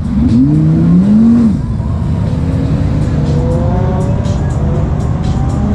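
High-performance car engines revving and accelerating, with a loud rising engine note in the first second and a half, then another engine climbing steadily in pitch partway through.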